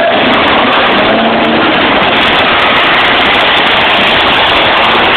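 Car engines in a demolition derby arena running loud and steady, with no break.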